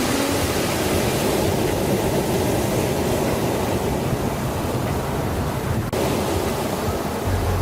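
Steady rushing noise with a brief dropout about six seconds in.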